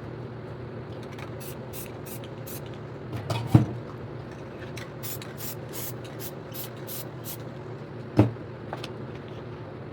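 Spray paint can giving a series of short hissing spurts, over a steady low hum. Two sharp knocks stand out, one about a third of the way in and one near the end.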